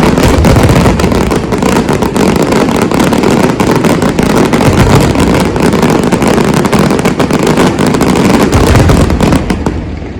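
A dense fireworks barrage: many overlapping bangs and crackles merge into one continuous loud rumble, which dies away near the end.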